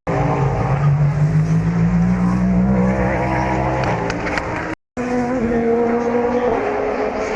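Endurance race car engines running at speed on the circuit. One engine's note climbs slowly over the first three seconds. The sound cuts out briefly about five seconds in and comes back with another car's engine note, which drops a little near the end.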